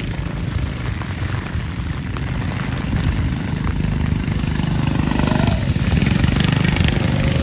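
Go-kart engines buzzing as karts race around the track, getting louder toward the end.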